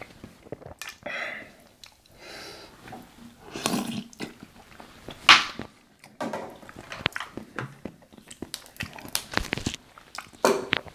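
Close-miked chewing and lip smacking while eating seafood, with irregular sharp mouth clicks and short wet bursts, the loudest about five seconds in.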